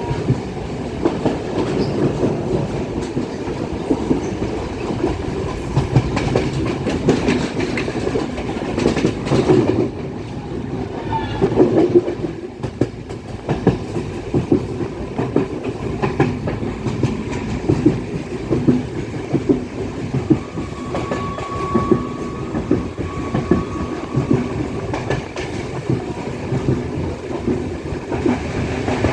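Passenger train running along the line, heard from on board: a steady rumble with wheels clattering rhythmically over the rail joints.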